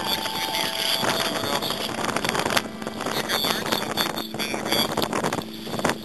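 Wind buffeting the microphone over water splashing and lapping around a moving kayak, with irregular small knocks and splashes.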